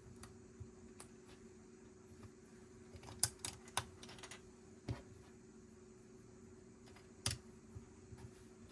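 Plastic Lego pieces handled and pressed together: scattered sharp clicks, with a cluster of louder ones about three seconds in, a duller knock near five seconds and another loud click past seven seconds, over a faint steady hum.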